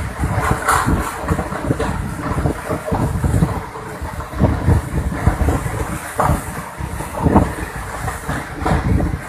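Strong gusting wind blasting the microphone with a loud, irregular low rumble, over rushing water from the storm.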